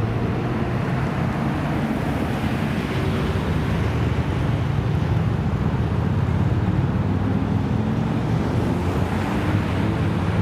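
Car engine running steadily, a low rumble, with wind noise on the microphone.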